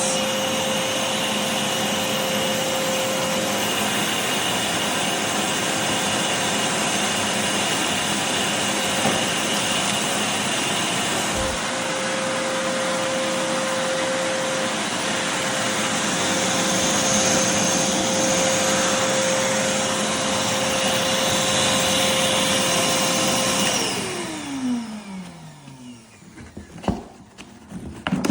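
Armor All AA255W 2.5-gallon wet/dry shop vacuum running with a steady rushing noise and a whine. It is switched off about three-quarters of the way through: the whine falls in pitch as the motor spins down. A couple of knocks follow near the end.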